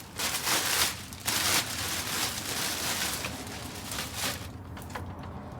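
Plastic wrapping crinkling and rustling as it is slid off an electric skateboard, in several bursts over the first four seconds, then dying down.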